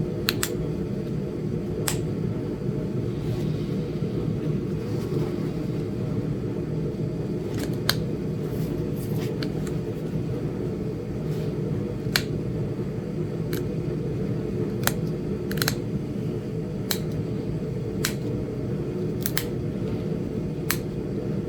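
Sharp, separate clicks of Flint Ridge chert being knapped as small flakes come off a small point. There are about fifteen, irregularly spaced about a second apart, over a steady low hum.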